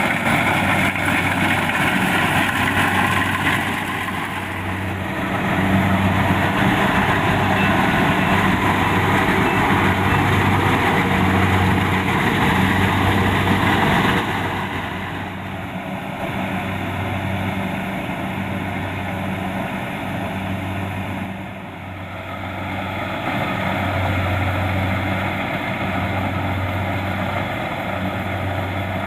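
Kubota DC-70 Plus rice combine harvester running under its diesel engine, with a low pulsing throb and a dense clatter of machinery. The sound is loudest for the first half, drops somewhat about halfway through, and swells again in the last quarter.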